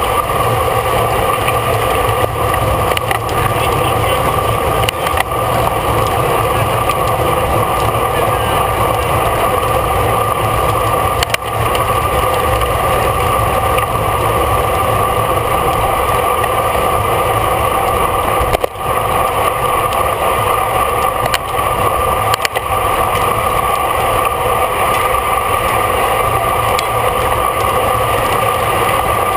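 Steady wind rush and road noise on a bike-mounted camera while riding at race speed, with a constant hum running through it.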